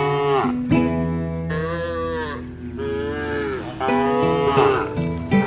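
Cattle mooing: long drawn-out moos that rise and fall in pitch, two full calls and the tail of another, over background acoustic guitar music.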